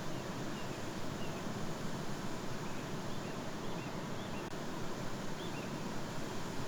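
Steady outdoor background noise, an even hiss, with a few faint, short bird chirps scattered through it.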